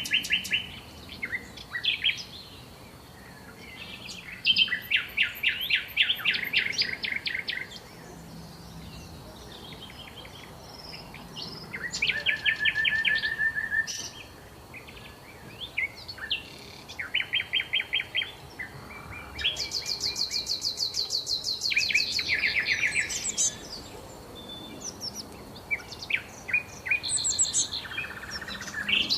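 Songbirds singing: a run of separate song phrases, each a fast trill or string of quick repeated notes, with short pauses between. A higher, thinner phrase comes about two-thirds of the way through.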